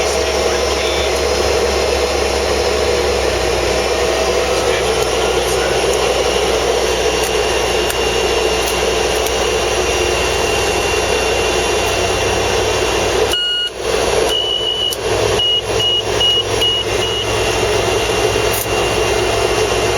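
Cessna 208B Caravan's Pratt & Whitney PT6A turboprop engine running steadily just after start, a constant turbine whine over a low rumble. About two-thirds of the way through the sound briefly cuts out, and a high beeping tone sounds several times.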